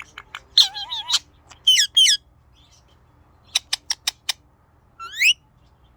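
Ringneck parrot calling in short bursts. It starts with a run of chattering squawks, then gives two rising squawks, then five short, sharp chirps in quick succession, and a single rising squawk near the end.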